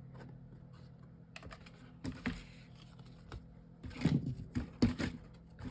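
Light clicks and taps of chipboard and paper pieces being handled and pressed into place on a tabletop, in small clusters, loudest about four and five seconds in.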